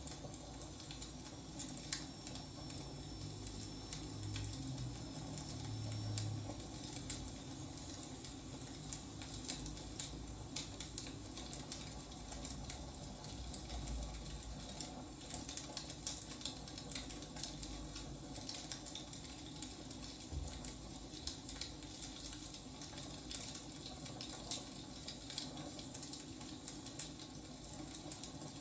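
Wood fire burning, crackling steadily with frequent small pops and snaps.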